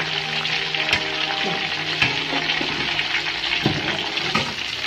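Chicken pieces deep-frying in hot oil in a steel pan: a steady crackling sizzle, with a few sharper clicks as a wire strainer works through the oil.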